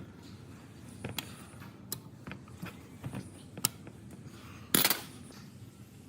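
Metal parts and hand tools clicking and knocking during hands-on work on engine parts: a handful of separate sharp clicks, then a louder short rattle about five seconds in.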